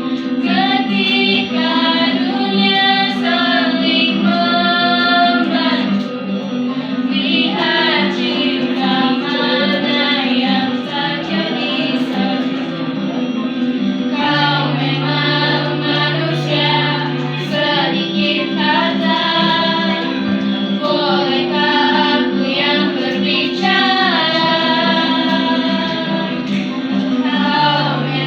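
A song with a female voice singing over a steady instrumental backing.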